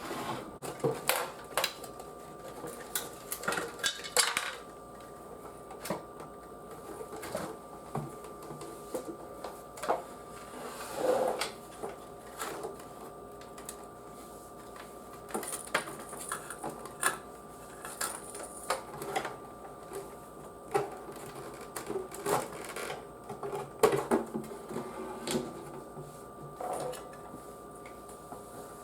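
Irregular clicks, taps and knocks of plastic and metal parts being handled while a CRT monitor is taken apart, with a short scraping sound near the middle, over a faint steady hum.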